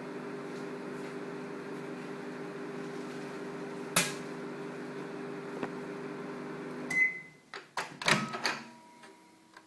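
Microwave oven running with a steady hum, with one sharp snap about four seconds in. The hum stops at about seven seconds with a short beep, followed by a run of clicks and knocks.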